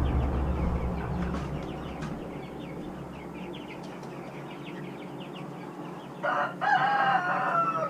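A rooster crows once near the end, a loud drawn-out call with a short break early in it, over steady rapid high-pitched chirping from birds. A low rumble fades away in the first couple of seconds.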